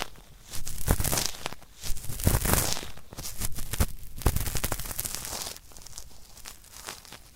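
Ear-cleaning sounds on an ASMR ear microphone: a run of irregular scratchy, crackling rubbing strokes from a tool working in the ear, growing fainter after about five and a half seconds.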